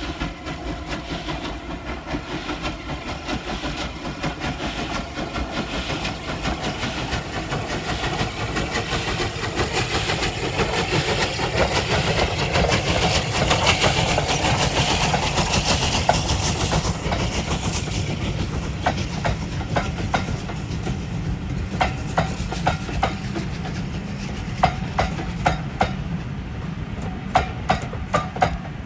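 A train passing close by: the running sound builds to a peak about halfway through, then eases as the carriages roll past. Their wheels click over the rail joints in the last few seconds.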